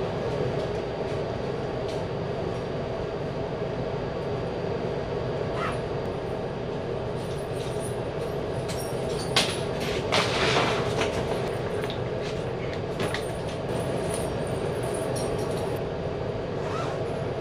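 Railway train moving slowly past a station platform: a steady locomotive hum with scattered clanks and a short burst of hiss about ten seconds in.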